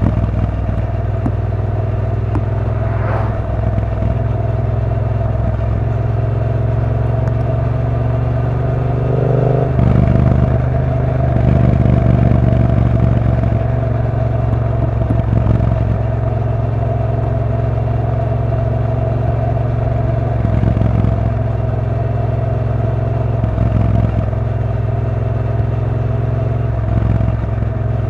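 2016 Triumph Bonneville T120 Black's 1200 cc parallel-twin engine running under way, its revs climbing for several seconds and dropping sharply about nine seconds in, then holding steady.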